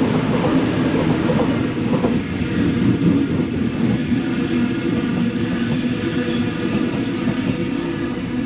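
Sydney Trains A-set (Waratah) electric train running along the line through the station: a steady rumble with a low hum, easing slightly near the end.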